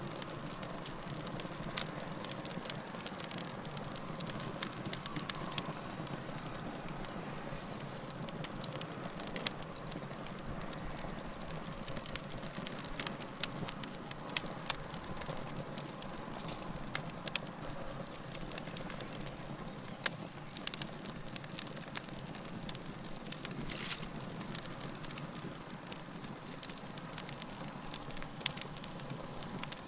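Wood fire burning steadily, with a low rushing hiss and frequent sharp pops and crackles scattered irregularly throughout.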